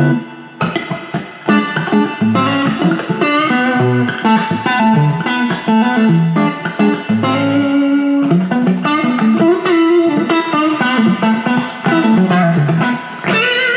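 PRS SE Silver Sky electric guitar played straight into a Fender Deluxe amp: a run of single-note lines and chord fragments, ending on a chord struck near the end that rings on.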